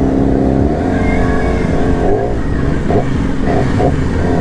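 Sport motorcycle engines running and revving, their pitch shifting up and down.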